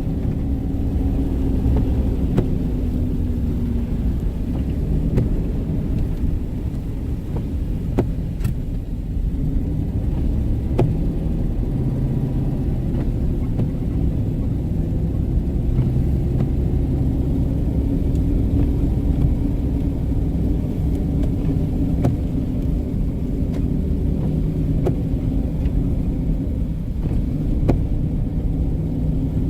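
Car driving at a steady pace, a continuous low rumble of engine and tyres with a faint engine tone drifting slightly in pitch, and a few faint ticks now and then.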